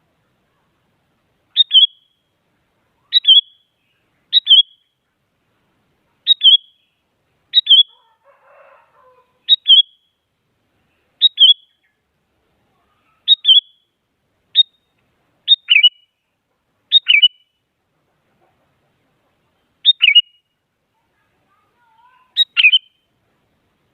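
Sooty-headed bulbul (kutilang) giving about thirteen short, sharp calls, each a quick falling note, repeated every one to three seconds.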